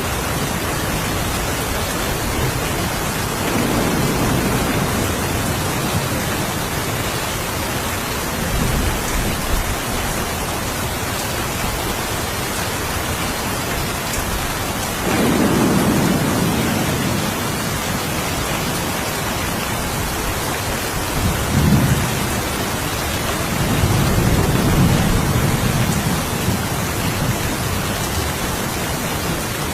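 Steady rain falling, with several low rolls of thunder over it; the loudest roll starts suddenly about halfway through, followed a few seconds later by a short, sharper clap and another long rumble.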